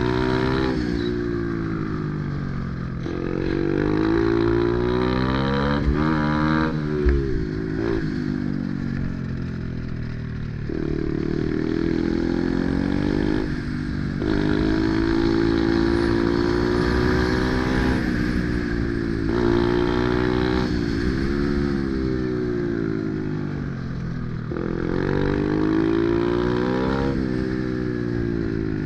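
Pit bike's single-cylinder four-stroke engine at racing revs: it climbs in pitch, drops off sharply, then climbs again again and again as the rider shifts and rolls off the throttle. A brief sharp knock comes about seven seconds in.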